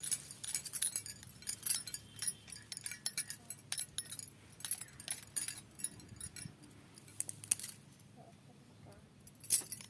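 Irregular light clinking and jingling, many quick sharp clicks, while leafy greens are being cut by hand. It thins out for about a second and a half near the end.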